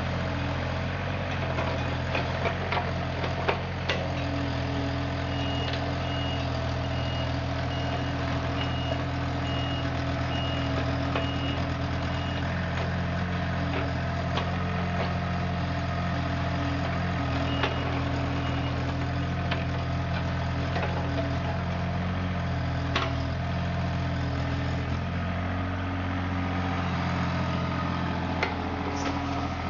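Heavy machine engine running steadily. A travel alarm beeps about once a second for several seconds, then twice more, and a few sharp knocks sound over the engine.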